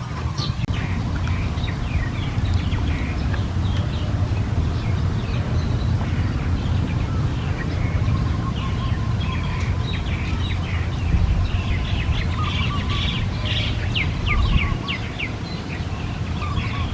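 Birds chirping in many short, quick notes, busiest near the end, over a steady low rumble of background noise.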